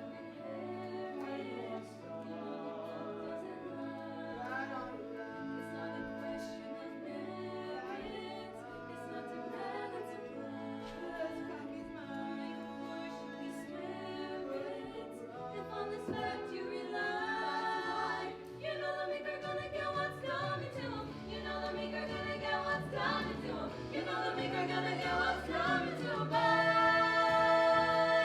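Musical-theatre number: voices singing long, held notes over musical accompaniment, building louder toward the end.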